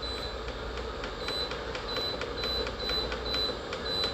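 2017 Keystone air cooler/humidifier's control panel beeping, short high beeps about three a second as the timer button is pressed repeatedly to turn the timer off, over the steady run of the cooler's fan.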